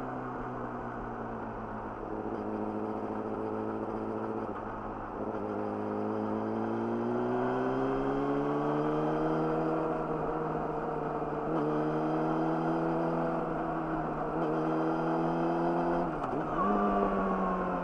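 Yamaha YZF-R6's inline-four engine through an Akrapovic slip-on exhaust, under way. The pitch climbs steadily as the bike accelerates about five seconds in, then holds with a couple of short dips. Near the end it drops sharply, rises again and falls away as the bike slows.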